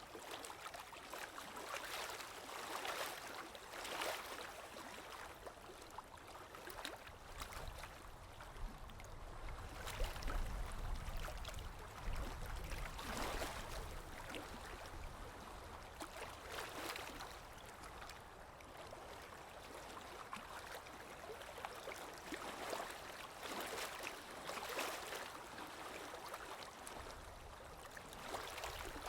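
Sea waves washing in and drawing back, the rush of water swelling and easing every few seconds, with a deeper rumble about ten seconds in.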